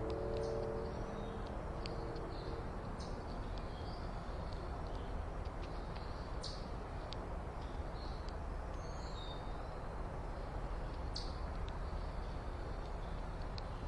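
Small backyard birds chirping now and then in short high notes over a steady low background rumble. A low hum in several pitches fades out in the first few seconds.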